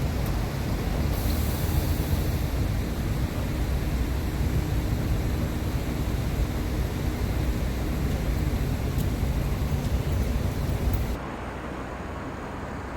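Steady low rumble of a large vehicle running, cut off suddenly about eleven seconds in to a quieter background.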